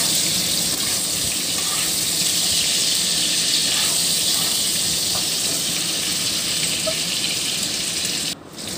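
Tomatoes, green chillies and onions sizzling in hot oil in a nonstick pan while a spatula stirs them: a steady frying hiss that drops out briefly near the end.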